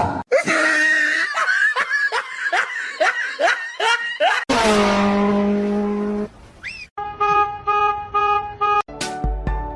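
Laughter in quick, repeated rising bursts for about four seconds, then a steady held pitched tone for about two seconds, then music with a repeating melody and bass beat starting about seven seconds in.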